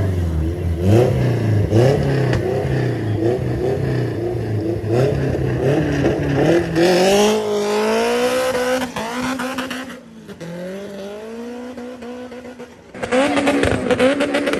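Race car engine revved in quick repeated blips, then accelerating hard with one long rising pitch about six seconds in. The engine sound drops away for a few seconds, then comes back loud near the end.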